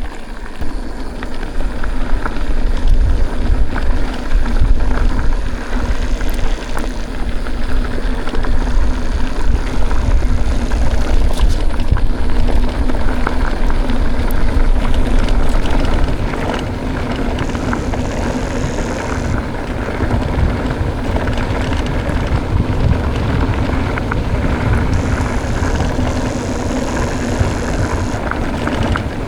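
Wind buffeting the microphone and mountain-bike tyres rolling over a dirt track while riding, a heavy rumble that eases a little about halfway through.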